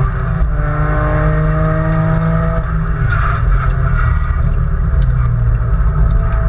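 Nissan Skyline R33 GT-R's twin-turbo straight-six heard from inside the cabin under hard track driving, revs climbing under acceleration, then easing off about two and a half seconds in, over a heavy low drivetrain and road rumble.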